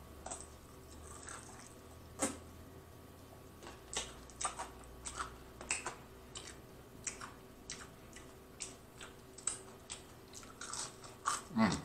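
Close-miked chewing of crispy fried chicken flats, with short crunches and wet mouth clicks and smacks at irregular intervals. A brief low 'mmm' near the end.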